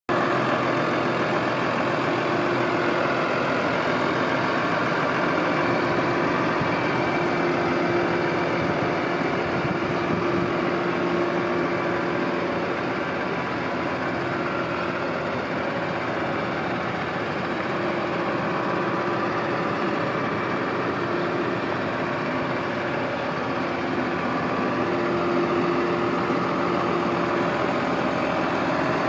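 Diesel engine of a New Holland T6.180 tractor running steadily at idle, a continuous even hum with a constant low tone.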